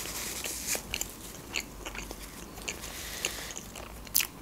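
Close-miked mouth sounds of a person chewing food: scattered small wet clicks and crunches, with one sharper smack about four seconds in.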